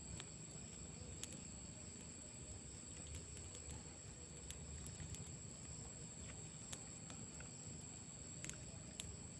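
Night insects, crickets, chirring steadily as a faint high-pitched chorus, with scattered small clicks now and then.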